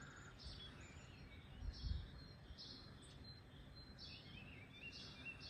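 Faint outdoor background with birds calling in short, repeated chirps; a low thump about two seconds in.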